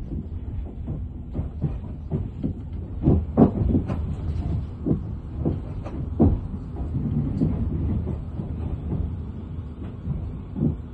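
Inside a Class 444 Desiro electric multiple unit: a steady low running rumble broken by irregular knocks and clunks, the loudest about three and a half and six seconds in.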